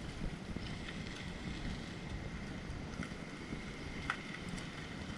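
Wind buffeting the microphone over a steady low rumble, as from a motorcycle on the move off-road. A faint high steady whine sounds for the first few seconds.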